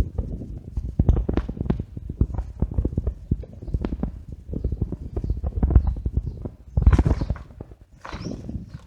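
Bicycle ride noise: a rapid, irregular clatter of knocks over a low rumble, typical of a bike and its mounted camera rattling over paving. The clatter is loudest about seven seconds in.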